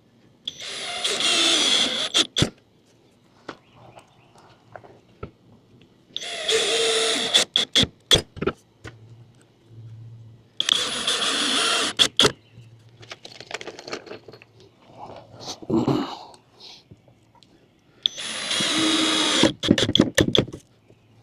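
Power drill driving screws to fasten the camper platform's trunk runner supports. It runs four times, about one and a half seconds each, and each run ends in a few sharp clicks.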